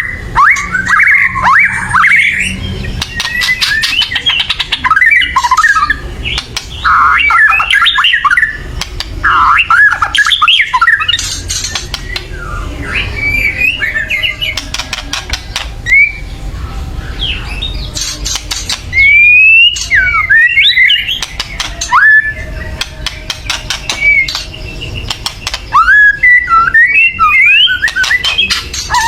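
White-rumped shama singing loudly in bursts: quick whistled, sweeping phrases mixed with harsh rattling, crackling notes (kretekan), the agitated calls of a shama worked up to sing.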